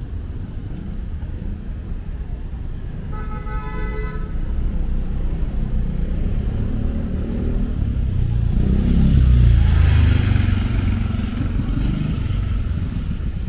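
Traffic on a rain-wet city street with a steady low rumble. A brief vehicle horn toots about three seconds in. Around ten seconds in a vehicle passes close, its engine and tyre hiss swelling and fading.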